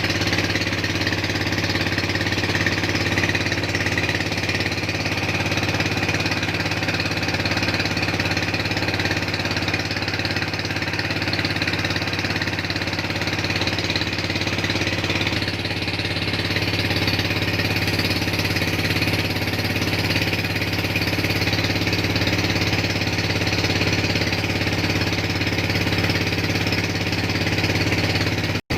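A boat's engine running steadily at an even pitch. The sound cuts out for an instant near the end.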